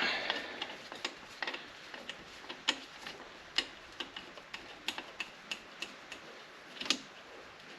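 Scattered light metallic clicks and ticks of hand tools working loose the Loctited cylinder bolts on a single-cylinder motorcycle engine, coming at irregular intervals, with a louder click near the end.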